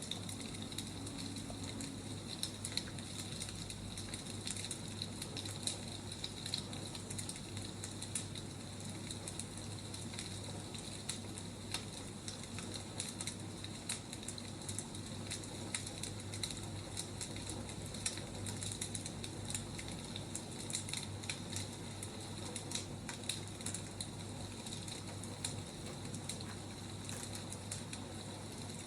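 Firewood burning, crackling with frequent small irregular pops over a steady hiss.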